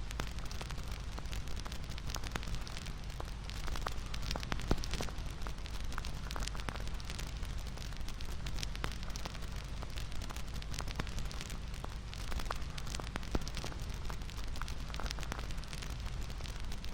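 Bonfire crackling, with irregular sharp pops and snaps over a steady hiss and a low rumble.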